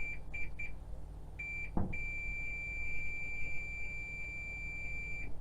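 Multimeter continuity beeper sounding as the probes test a circuit-board trace. It gives a few short broken beeps, then one long steady beep lasting about three and a half seconds. The beep shows the scratched trace is unbroken.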